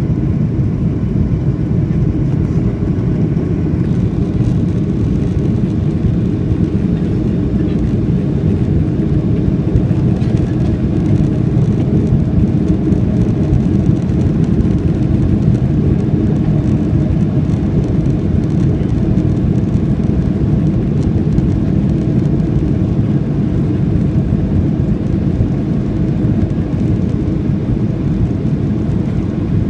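Steady low rumble of a Boeing 737-800's engines and airflow, heard from inside the passenger cabin.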